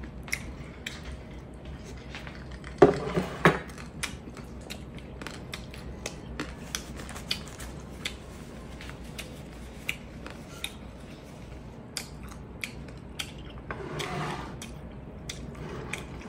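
Close-up eating sounds of a person chewing a mouthful of kinilaw and rice: wet mouth smacks and short clicks as fingers pick food from a wooden plate, with a louder burst of mouth sounds about three seconds in.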